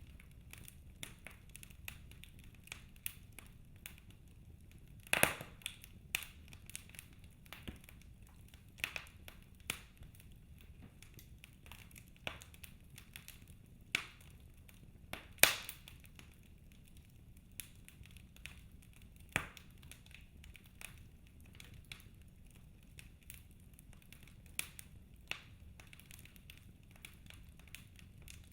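Wood fire crackling: irregular sharp pops and snaps over a faint low hiss, with two louder pops about five seconds in and past the middle.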